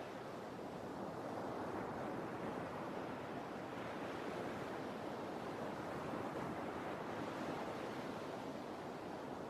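Sea surf: a steady rushing wash of waves that swells and eases gently every few seconds.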